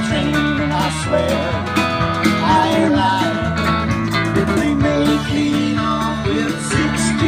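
Country-rock band playing live through an instrumental passage: a gliding lead over bass, guitar and drums with a steady beat.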